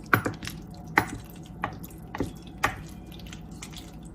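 Wooden spoon stirring cheese sauce into cooked macaroni in a glass baking pan: wet squelching with irregular knocks of the spoon against the dish, about seven in a few seconds.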